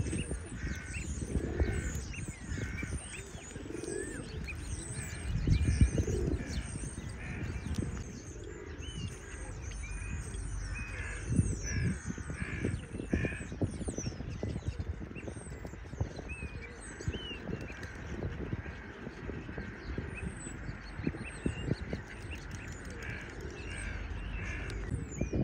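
Pond birds calling: harsh calls repeated in short series of several notes, over the high chirping of small birds, with wind rumbling on the microphone.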